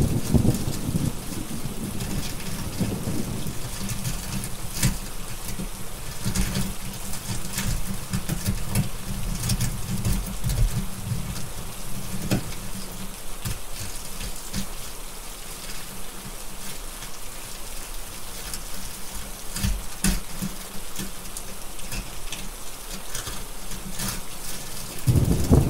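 Steady rain hissing, with a low roll of thunder rumbling through the first half, fading away, then a new roll of thunder starting near the end. Scattered sharp pops and crackles through the rain.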